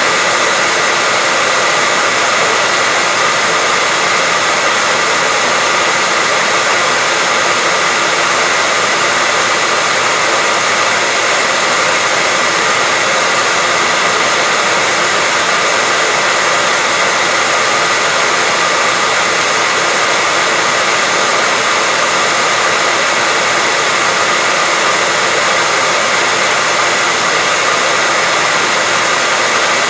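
Hair dryer running steadily: an even rushing of air with a faint steady whine, played without a break as white noise to lull a baby to sleep.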